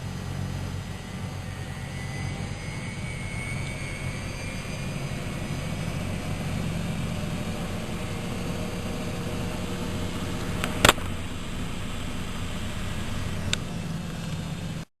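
Miele Novotronic W120 washing machine running with a steady motor hum, a sharp click about eleven seconds in and a lighter click a few seconds later.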